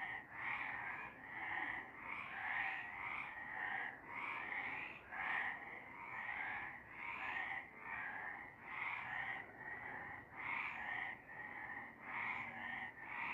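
Several frogs croaking in a continuous chorus, their calls overlapping and pulsing about twice a second.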